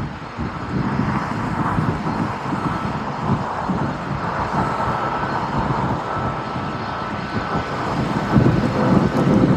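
Jet airliner engines running at high power: a steady rumble with a faint high whine, growing a little louder near the end.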